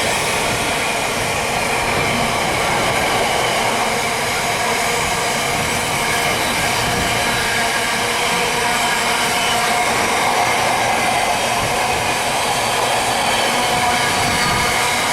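Long freight train's wagons rolling past close by: steady wheel-on-rail noise with several held high tones from the wheels.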